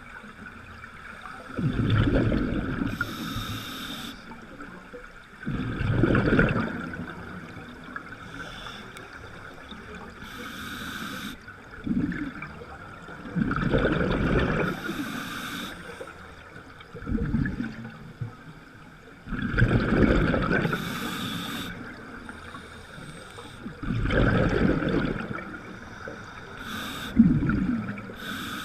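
Water rushing and splashing around a boat, swelling into deep surges every four to six seconds with short hissing splashes in between.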